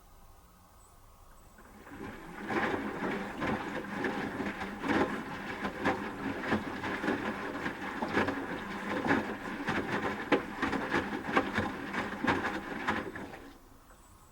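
Asko W6098X washing machine drum making one tumble turn during the heating stage of a 30 °C quick wash, the wet laundry lifting and dropping with many irregular knocks. The drum starts about two seconds in and stops shortly before the end.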